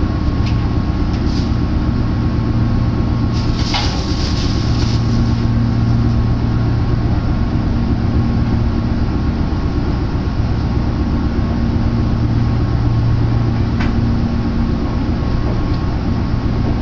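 Electric commuter train running, heard from inside the carriage: a steady low rumble with a faint held whine above it, and a few brief clicks, the most marked about four seconds in.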